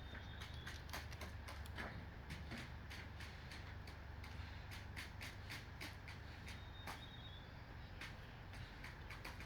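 Peafowl walking on a roof: irregular light clicks and taps of their feet, over a steady low hum.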